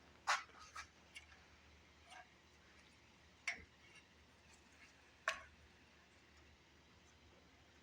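A few scattered light clicks and taps of hand tools and small metal parts being handled while an engine is taken apart, the two clearest about three and a half and five seconds in.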